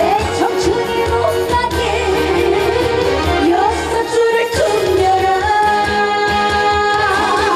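Live trot song: a female voice sings with vibrato over an amplified backing band with a steady beat.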